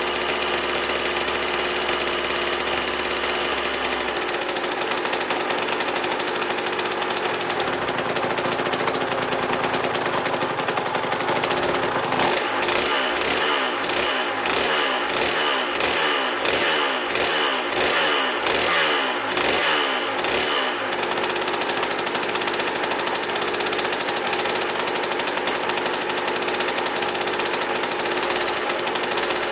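Aprilia RS 125's Rotax 122 single-cylinder two-stroke engine warming up after a rebuild. It runs steadily, and for about nine seconds in the middle it pulses unevenly, about twice a second, before settling back to an even note.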